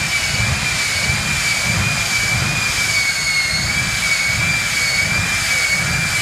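Jet truck's jet engine running steadily: a high, slightly wavering whine over a low rumble.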